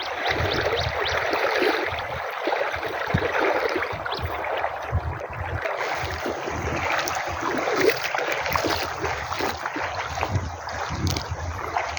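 River water rushing, with many small splashes throughout.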